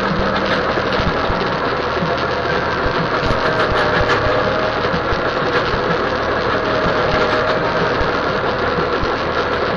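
Tractor engine running steadily while working.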